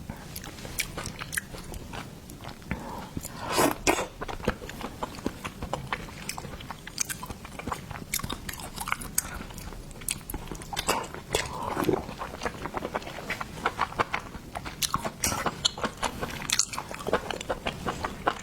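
A person chewing and biting food close to the microphone, with many quick wet clicks and short crunches.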